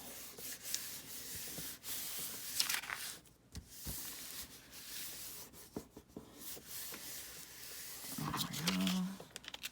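A hand rubbing and smoothing a sheet of dyed paper down onto a freshly glued paper page: paper rustling and scraping in short, irregular strokes.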